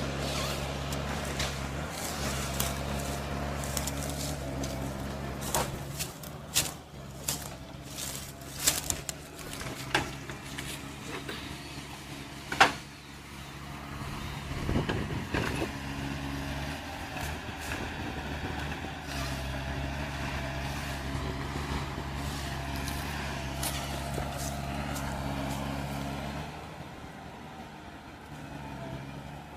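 A heavy diesel machine engine running steadily, with a run of sharp knocks and clanks in the middle, the loudest about halfway through. The engine sound drops off near the end.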